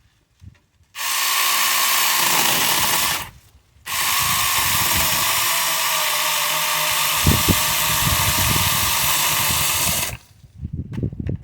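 Battery-powered 6-inch mini chainsaw running with a steady high whine while cutting brush, in two runs: about two seconds, a short stop, then about six seconds.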